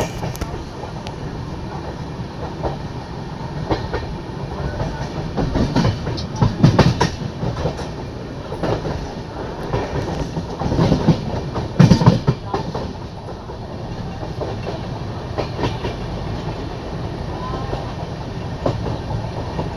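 Passenger train running along the track with a steady rumble and wheels clacking over rail joints. Louder bursts of clattering come about six and eleven seconds in.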